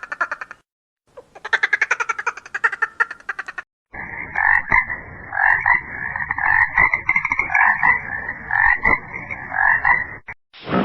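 Frogs croaking. A rapid pulsing trill is followed by a run of repeated, evenly spaced croaks lasting about six seconds.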